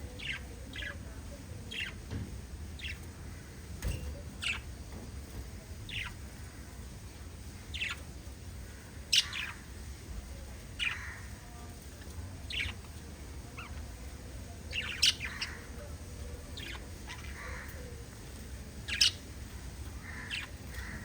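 Budgerigars chirping in short, separate chirps about once a second, a few of them sharper and louder, over a steady low hum.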